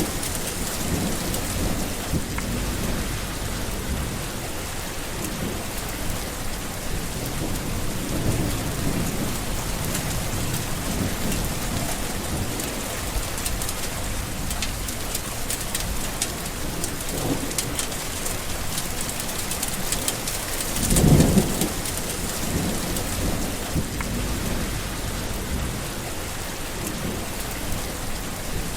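Steady heavy rain with rumbles of thunder. The loudest thunder roll swells up about two-thirds of the way through, with weaker rumbles earlier.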